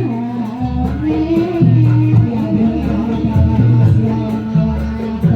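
Live jaranan accompaniment music: a singing, wavering melody over deep bass notes that swell and fade in a steady cycle.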